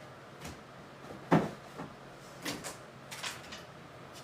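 A few soft knocks and clunks of things being handled, the loudest about a second and a half in.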